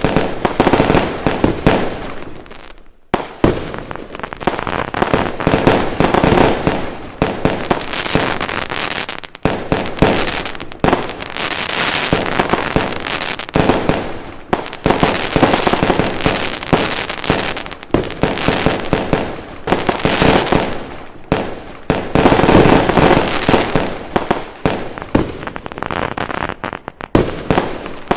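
Fireworks going off in a dense, continuous barrage: many rapid crackling bangs and pops overlapping, with brief lulls every few seconds.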